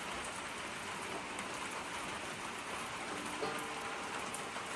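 Steady rain falling, an even hiss of drops, with a few faint brief tones about three and a half seconds in.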